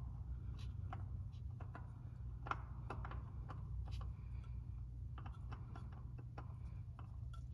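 Light, irregular clicks and taps, a few a second, as an oil filter and its housing parts are handled and fitted by hand. A steady low hum runs underneath.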